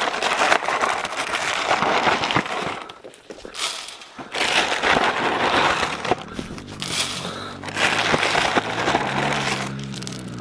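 Dry cereal crunching and rattling as it is poured and dumped out in several bursts. About nine seconds in, a steady low hum starts up under it.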